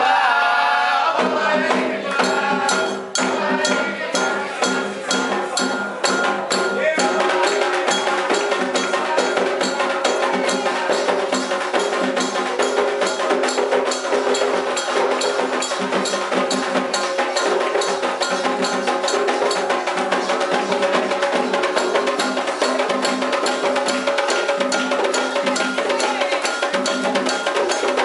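Candomblé ritual percussion: drums and a metal bell playing a fast, steady rhythm.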